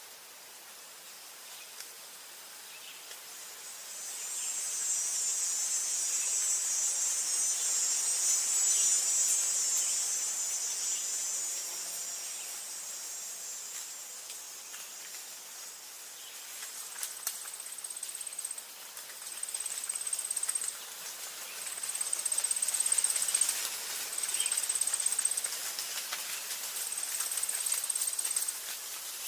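Forest ambience dominated by high-pitched insect song: a shimmering buzz swells in about four seconds in and fades away again, then a series of high trills follows, each a second or two long with short breaks between them.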